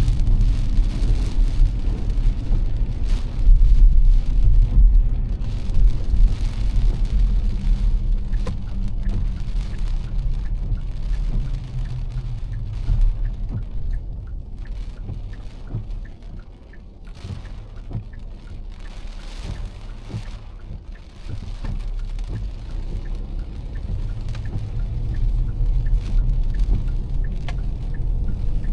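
Heavy rain pattering on a car, with a steady low rumble of tyres and engine underneath. The rumble fades for several seconds past the middle, leaving mostly the rain, then builds again.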